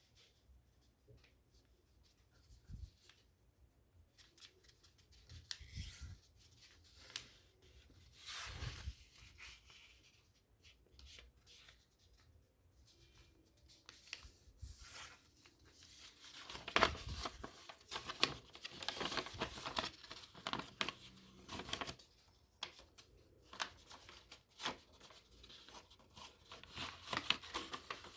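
A sheet of origami paper being folded and creased by hand: scattered crinkles and rustles, busier and louder in the second half.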